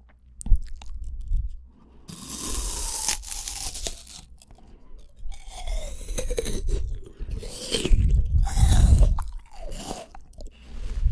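Close-miked chewing of fresh fruit: wet crunching and squelching in several bouts, the loudest about eight to nine seconds in.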